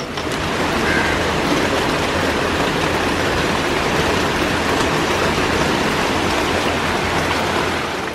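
Heavy monsoon rain falling steadily, heard through a window just pushed open; it swells right after a sharp click at the start.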